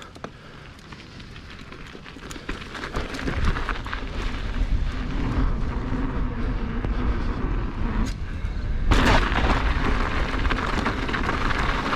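Mountain bike riding a dirt run-in and off a drop. Wind buffets the microphone and tyre noise builds with speed. A louder burst of noise comes about nine seconds in.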